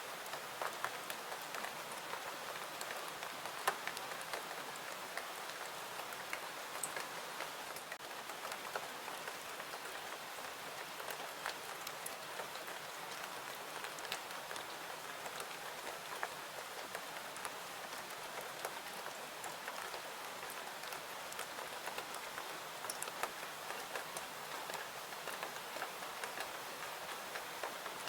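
Steady rain patter with many small sharp ticks and crackles scattered through it, one a little louder a few seconds in; a crackling wood fire is mixed in with the rain.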